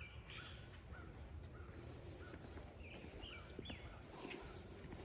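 Small birds chirping outdoors: short, hooked notes repeated about every half second, over a faint, steady low background noise.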